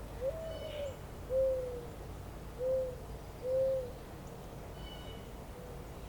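A bird gives a series of four low hoots, the first higher and longer, the next three lower and shorter. Faint high chirps from small birds sound over a steady low background hiss.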